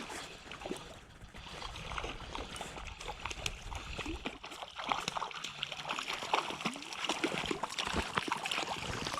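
Water splashing and sloshing as a hooked brown trout is played in and landed, over the running creek, with many small irregular clicks; the splashing grows louder toward the end.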